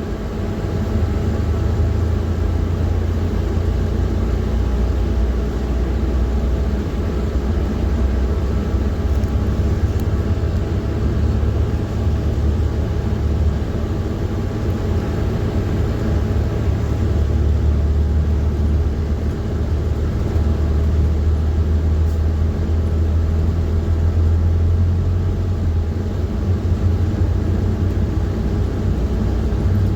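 PAZ-4234-05 bus's diesel engine running under way, heard from inside the cabin: a steady low drone that swells somewhat about halfway through.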